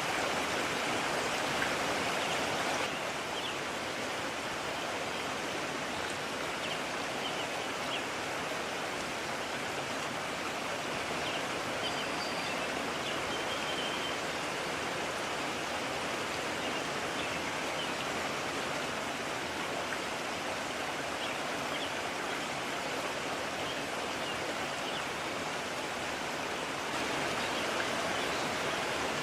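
Mountain stream rushing steadily. The water noise drops a little about three seconds in and rises again near the end.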